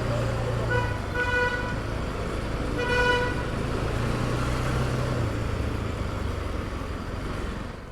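Road traffic with engines running, and a vehicle horn honking: short blasts about a second in and again about three seconds in.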